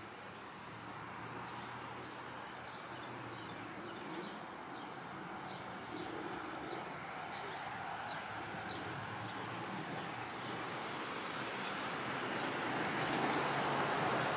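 A train approaching: a steady, noisy rumble that grows steadily louder. A fast, high-pitched ticking runs through the first half.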